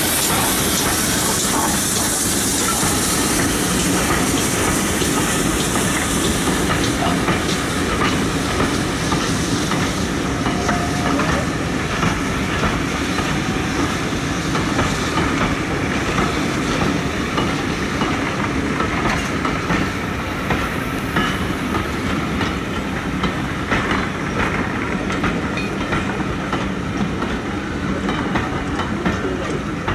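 Steam-hauled passenger coaches rolling slowly past, their wheels clicking over the rail joints. A high steam hiss from the locomotive fades over the first several seconds.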